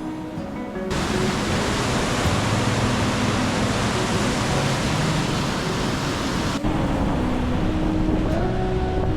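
Waterfall roaring: a steady rush of noise that cuts in about a second in and stops abruptly after about six seconds. Soft background music plays before and after it.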